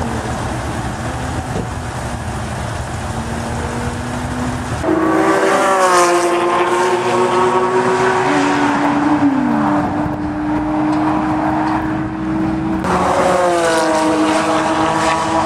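Porsche 997.2 GT3 RS flat-six engine running through a Shark Werks muffler-bypass exhaust under hard driving. About five seconds in it jumps to a loud, high-revving note that holds nearly steady, and it surges again near the end.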